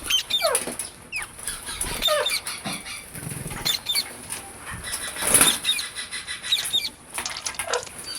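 Parrots calling with a string of short chirps and downward-sliding squawks, mixed with clicks and rustling; a loud rustle comes about five seconds in.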